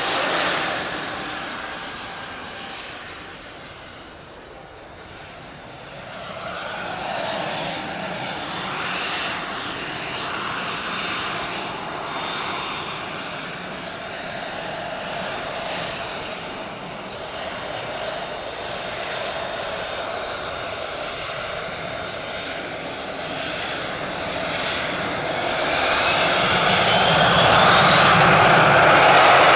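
Hawker 800XP business jet's twin Honeywell TFE731 turbofans on the takeoff run, a steady jet engine noise that grows louder with a rising whine over the last few seconds.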